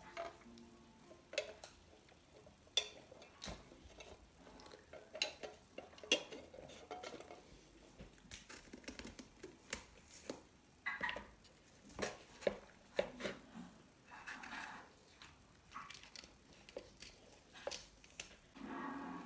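Kitchen handling sounds: dishes and utensils clinking and knocking as they are set down and moved, in irregular, uneven taps with short shuffling noises in between.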